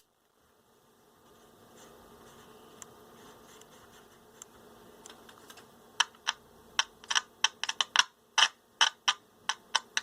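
Heathkit GR-151b transistor radio's speaker giving a faint hiss with a low hum, then from about six seconds in a run of irregular sharp pops and clicks. The set is unstable and oscillating after a germanium transistor was swapped in.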